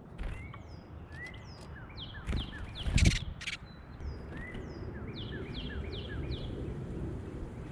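Small songbirds calling with many short chirps, several sliding down in pitch and some in quick runs of three or four. A few sharp knocks sound among them, the loudest about three seconds in. A steady low background rumble runs underneath.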